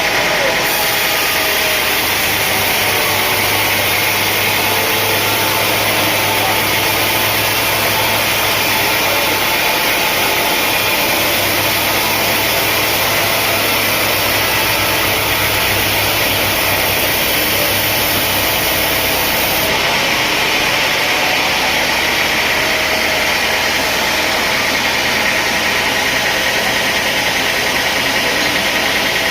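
Sawmill machinery running steadily: a constant engine hum under an even mechanical hiss.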